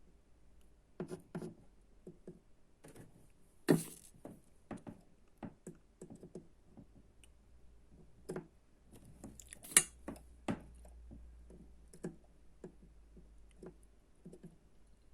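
Irregular small clicks and taps of tools and parts being handled on a workbench, with two sharper, louder clicks about four and ten seconds in.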